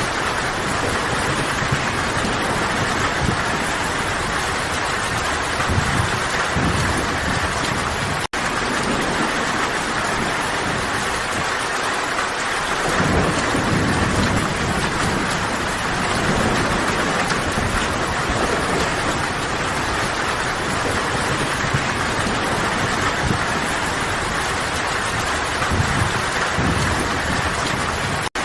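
Steady heavy rain falling on forest foliage, with slow low rumbles of distant thunder swelling and fading. The sound cuts out for an instant about eight seconds in and again near the end.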